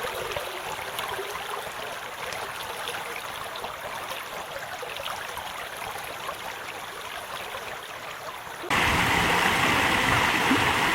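Creek water rushing steadily. Near the end the sound jumps abruptly louder, with more rushing water and a steady high tone over it.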